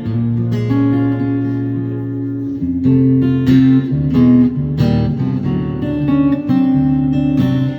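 Acoustic guitar playing a blues song's instrumental intro: bass notes ring under picked notes and strummed chords.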